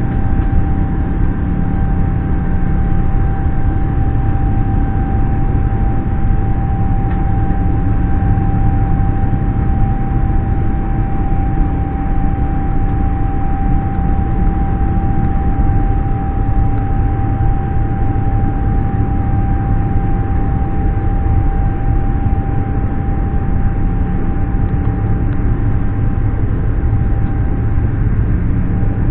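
Airbus A350 cabin noise in flight: a steady, loud rumble of engines and airflow with a thin steady whine held over it.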